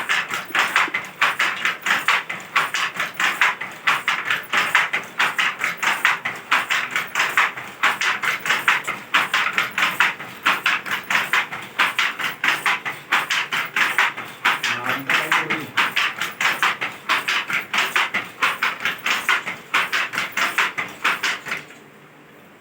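Handloom being worked: a fast, steady clacking of several knocks a second, which stops shortly before the end.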